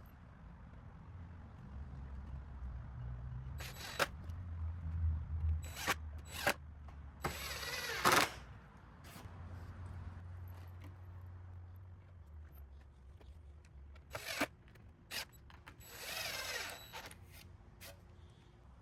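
Power drill driving screws into wooden fence planks in two short whirring runs, about seven and sixteen seconds in, with sharp knocks and clicks of the drill and boards being handled in between.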